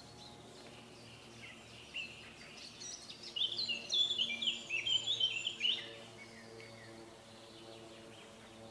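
A songbird singing a quick twittering phrase of high chirps for a few seconds in the middle, over soft background music with sustained tones.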